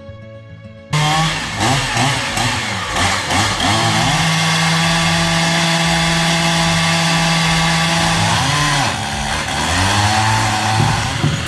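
Two-stroke chainsaw running at full throttle after a cut-in about a second in, its engine pitch sweeping up and down with the throttle, held steady for about four seconds, then dropping and climbing again near the end.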